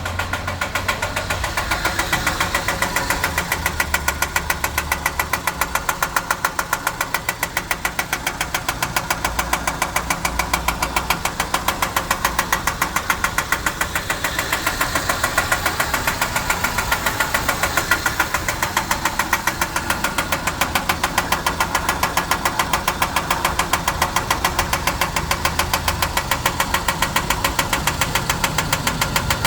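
2003 Ford Ranger's 2.3-litre four-cylinder engine running at a steady speed with a regular, rhythmic knock throughout, which the owner suspects may be engine knock.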